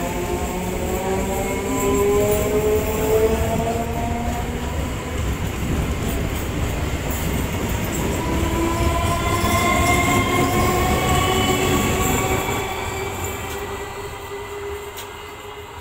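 Electric suburban local train (EMU) pulling out of the station and gathering speed. Its motors whine in several tones that rise slowly in pitch, over a heavy rumble of wheels on the rails. From about three-quarters of the way through it fades as the train moves off.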